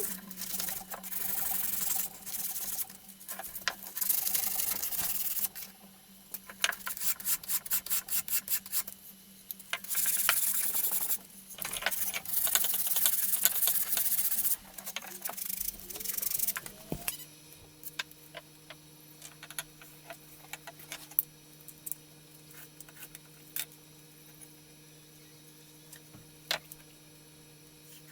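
Abrasive rubbing on wood in repeated strokes, like sandpaper worked back and forth, with a run of quick short strokes partway through. About two-thirds of the way in it stops abruptly, leaving a low steady hum with scattered light clicks.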